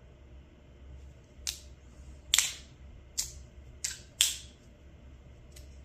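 3D-printed magnetic floating fidget slider clicking as its plates are slid and snap into the magnet positions: five sharp clicks at uneven spacing, two of them louder, and a fainter one near the end.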